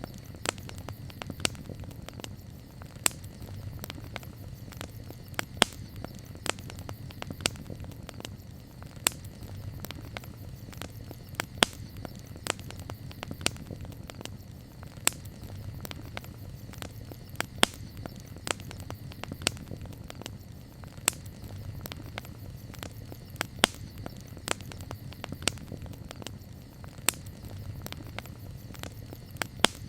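Wood campfire crackling: sharp, irregular pops and snaps, several a second with a louder one every second or two, over a low steady rumble.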